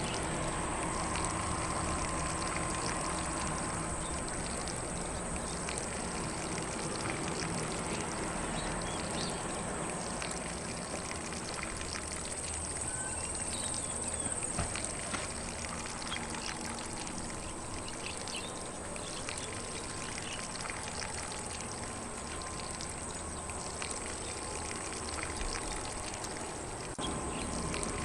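Steady spray of water from a lawn sprinkler hissing onto grass, with faint birdsong.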